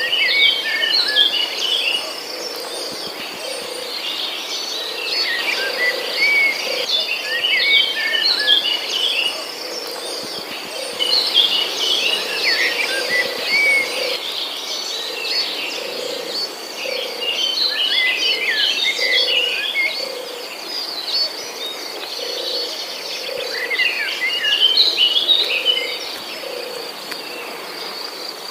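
Rainforest ambience: a steady high drone of crickets or cicadas, with a songbird singing short bursts of quick chirping phrases every few seconds and a low note repeating about once a second underneath.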